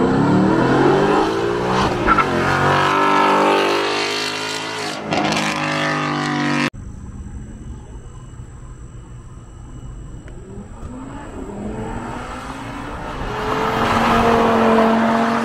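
Supercar engine accelerating hard, its pitch climbing, then cut off abruptly partway through. After a quieter stretch, another car's engine grows louder toward the end with a gently rising note.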